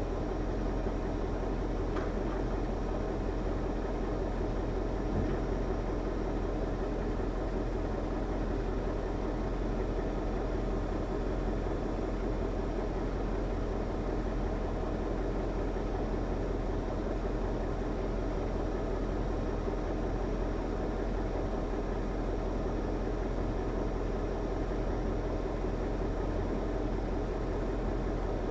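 KAMAZ timber truck's diesel engine running steadily at an even speed, with a faint click about two seconds in.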